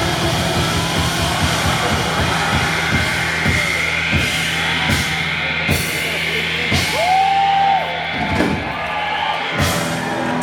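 Live rock band playing, with a sustained chord under repeated drum-kit hits and a single held higher tone about seven seconds in.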